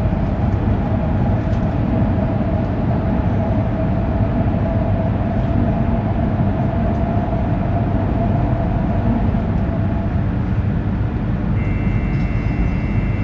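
An E2 series Shinkansen passing on the adjacent track, heard from inside a stopped Shinkansen car: a steady low rumble with a humming tone that fades out about ten seconds in as the train clears. Two steady high tones come in near the end.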